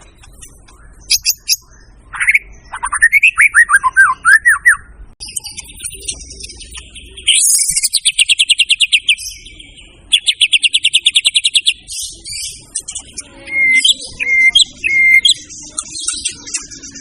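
White-rumped shama (murai batu) singing a loud, varied song: a series of falling slurred whistles, then two fast rattling trills, then repeated clear whistled notes at about two a second near the end.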